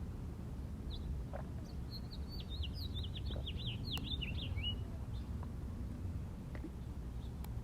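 A small songbird singing a quick run of short, down-slurred notes lasting a couple of seconds, with a few faint single chirps before and after, over a steady low rumble.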